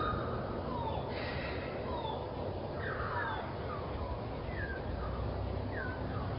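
Birds calling with short, falling chirps repeated every second or so, over a steady low background rumble.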